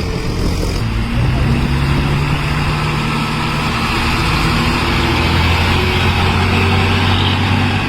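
A heavy vehicle's engine running steadily, with road noise. The low hum holds an even pitch and grows firmer about a second in.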